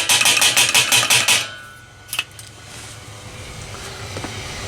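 Fast metallic rattling, about six knocks a second, as the Weber Smokey Mountain's steel charcoal ring is banged to shake ash loose and keep the charcoal burning. It stops about a second and a half in, followed by a single click.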